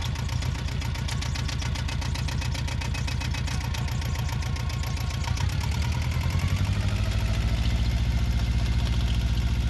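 Yanmar 2GM two-cylinder marine diesel running with a steady pulsing beat; about six to seven seconds in, its note shifts and grows louder. This engine at times breaks into knocking and violent shaking at a certain speed.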